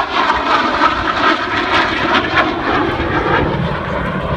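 F-16 fighter jet passing: loud rushing jet noise with crackle, turning duller and lower about three and a half seconds in as it moves away.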